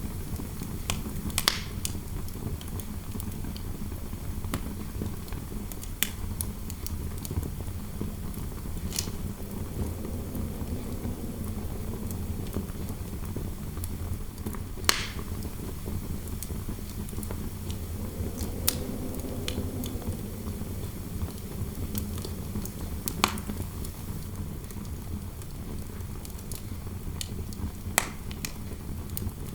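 Fireplace fire crackling, with a sharp pop every few seconds over a steady low rumble. Interior wind howls softly, its pitch wavering up and down for a few seconds around the middle and again a little later.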